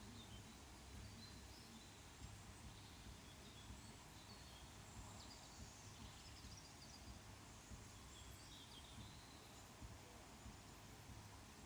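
Near silence: faint outdoor ambience with scattered brief, distant bird chirps.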